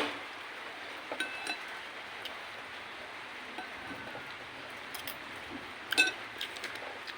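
Spoon clinking against a bowl a few times, the loudest clink near the end ringing briefly, over the steady hiss of rain.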